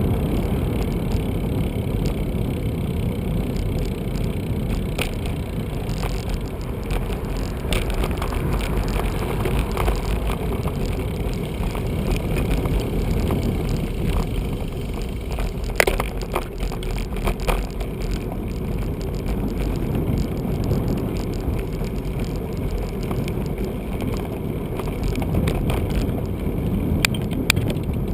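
Steady low rumble of a bicycle being ridden along city streets: tyre and road noise with wind on the microphone. A few sharp clicks or rattles break through, the loudest about halfway through and another near the end.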